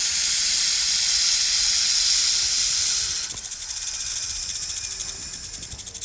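A snake hissing: one long, loud hiss that, a little past halfway, breaks into a rapid, evenly pulsed flutter.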